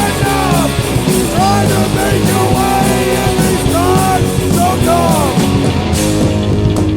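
Punk rock band recording: distorted guitars, bass and drums with a melody line bending up and down in pitch. About six seconds in, the cymbals drop out.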